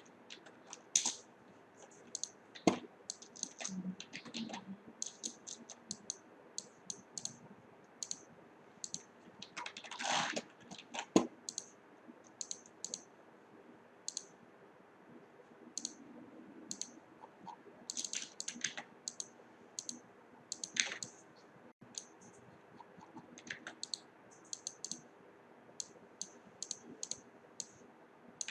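Irregular light clicks and taps, several a second in scattered clusters, with a few louder knocks, the loudest about eleven seconds in.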